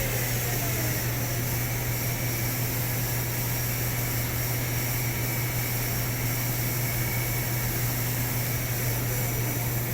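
Steady hum and fan-like noise of a powered-up Miyano BNE-64SY2 CNC lathe standing at rest, with a constant low drone; the turret ball-screw moves are so quiet that they barely show above it.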